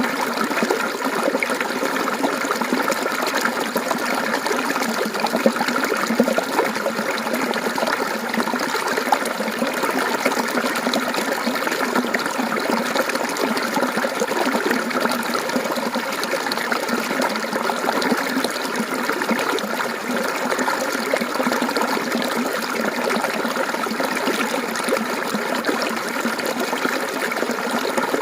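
Mountain stream water flowing and trickling steadily, a continuous babbling splash.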